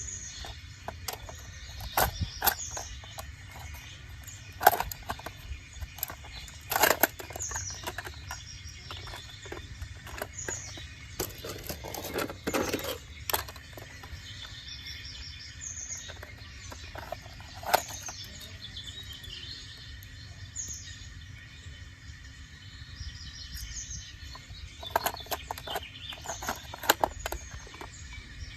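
Small birds chirping in short, repeated high calls, with scattered sharp clicks and knocks over a steady low rumble.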